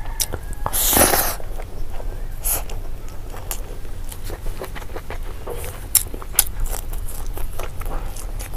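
Close-miked eating sounds: a person chewing mouthfuls of rice and fried pork belly, with wet clicks and smacks throughout. There is a louder, longer rustling burst about a second in as a handful of rice goes into the mouth.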